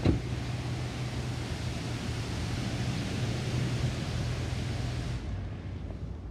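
Steady rushing hiss from automatic car wash equipment running in the bay, over the low hum of an idling car; the hiss cuts off suddenly about five seconds in. A single thump right at the start.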